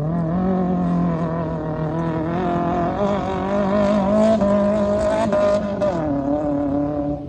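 Car engine revved hard and held at high revs during a timed race run. The pitch jumps up at the start, climbs a little further midway, then drops back about six seconds in as the driver lifts off.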